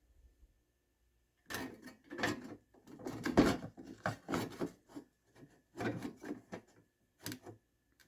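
A run of short, irregular scraping and rubbing strokes with small knocks from hand work on the car-body repair, starting about a second and a half in.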